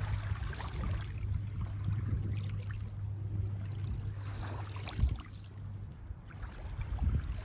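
Small waves washing onto a sandy beach, with a steady low rumble underneath that eases about six seconds in.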